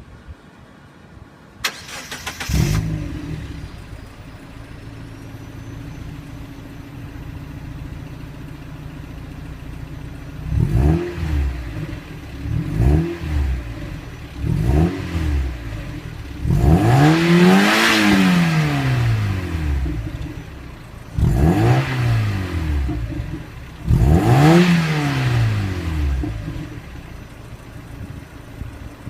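Mazda NB Roadster's 1.6-litre B6 inline-four through its stock exhaust, cranked and caught about two seconds in, idling, then free-revved in several short blips and two longer revs that rise and fall, settling back to idle near the end.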